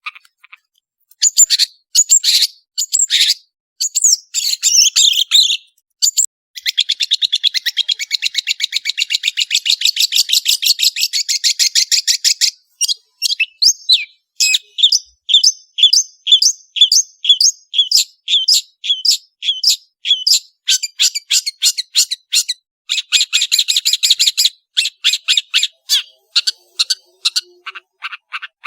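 Long-tailed shrike (cendet) singing a loud, fast, varied chattering song. Long rapid trills alternate with runs of sharp, evenly spaced notes at about three a second.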